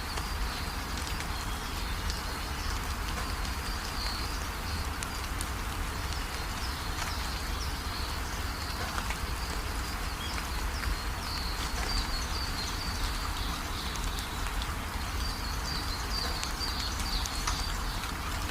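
Steady rain, with drops ticking sharply against a surface over an even wash of rainfall. Faint high-pitched chirping comes and goes above it.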